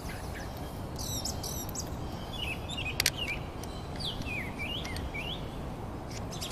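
Birds chirping in short sweeping calls over a steady low outdoor background noise. A single sharp click about three seconds in as the adapter is fitted to the GNSS receiver.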